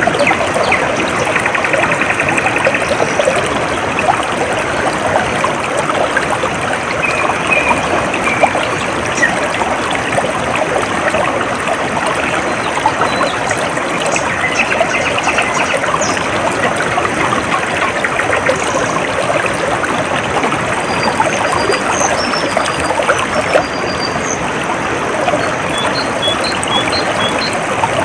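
Stream water trickling and babbling steadily. Faint, brief high bird chirps are scattered through it, with a short run of them near the end.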